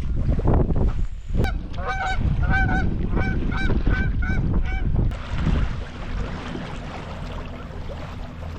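A bird gives a series of about eight short honking calls over some three seconds, over heavy wind rumble on the microphone.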